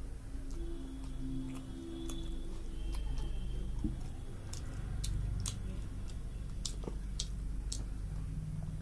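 A person chewing rice and curry eaten by hand, with wet mouth smacks and short sharp clicks, several coming close together in the second half.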